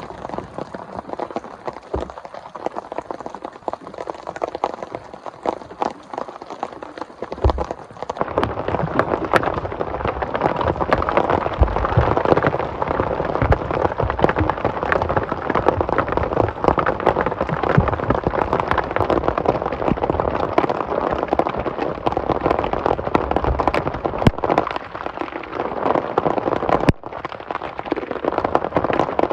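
Heavy rain falling, thick with fine close drop impacts on a surface. It turns louder and fuller about eight seconds in, with a brief dip near the end.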